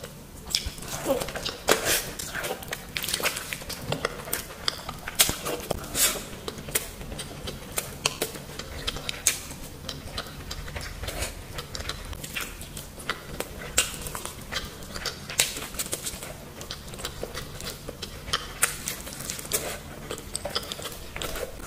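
Close-miked eating sounds of rice and curry being eaten by hand: wet chewing and lip smacks, made up of many small, irregular clicks.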